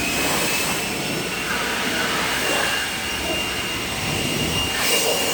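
Electric air blower whining up to speed and then running steadily with a high, steady whine over a rush of air, blowing water off a freshly washed engine bay.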